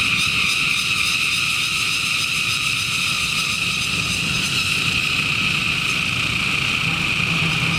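Cicadas calling in a steady chorus, one continuous high buzz that holds level without a break.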